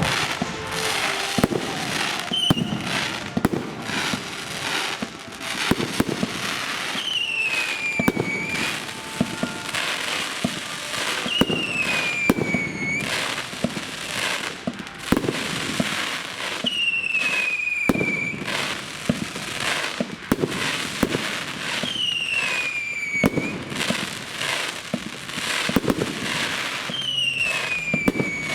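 Fireworks display: a dense, continuous run of bangs and crackling. A falling whistle recurs about every five seconds.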